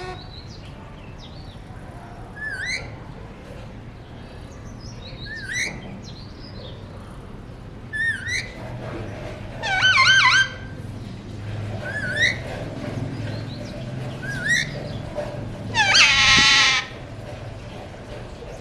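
Pet parakeet giving short rising whistled chirps every few seconds, with two louder, harsher calls about ten and sixteen seconds in.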